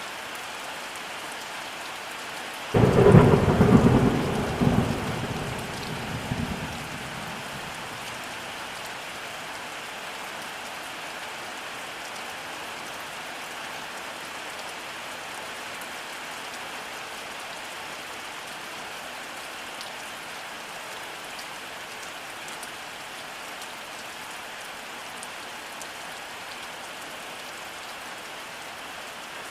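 Steady rainfall with a thunderclap that breaks in suddenly about three seconds in. The thunder is the loudest sound and rumbles away over about four seconds, leaving the rain running on.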